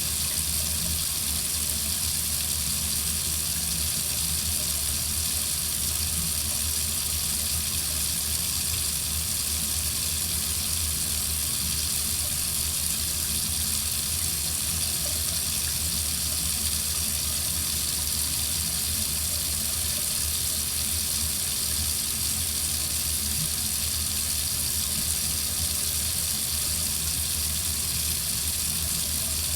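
Water running steadily from a tap, a constant hiss and splash of the stream.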